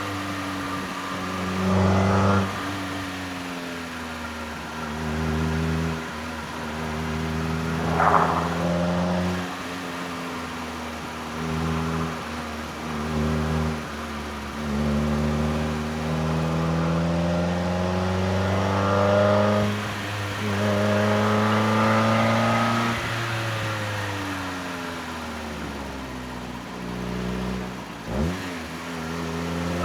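Heard from inside the car, the NB Mazda MX-5 Miata's four-cylinder engine and exhaust are driven hard: the revs climb again and again and drop off between pulls. There is a short sharp burst of noise about eight seconds in, and a quick rev dip and blip near the end.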